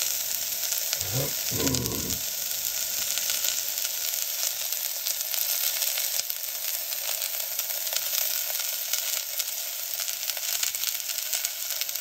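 Sliced red onion, garlic and curry leaves sizzling steadily as they sauté in a stainless steel pot.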